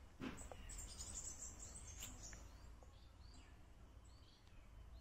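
Quiet ambience with faint, short bird chirps repeating in the background, and a couple of light clicks.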